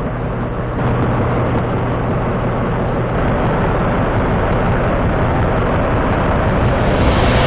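Snow blower engine running steadily while clearing snow, with a brief swell in the rush of noise near the end.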